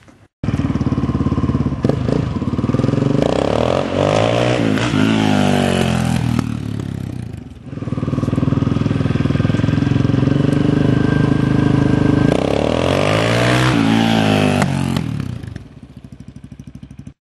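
Dirt bike engine running loud and close, its pitch sweeping up and down twice as the bike revs and rides by. Near the end it drops to a quieter, even pulsing before cutting off suddenly.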